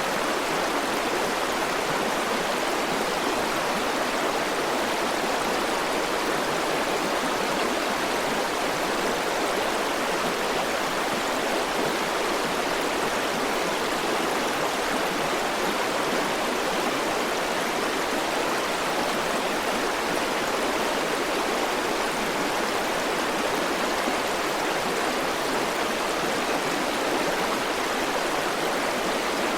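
River water flowing over rocks in a steady, even rush, with no change in level.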